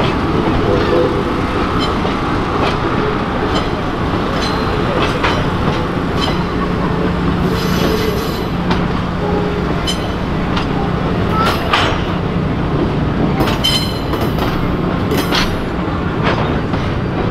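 Railway passenger cars rolling past on the rails: a steady wheel-on-rail rumble with scattered clicks over the rail joints and brief wheel squeals, a high one about eight seconds in.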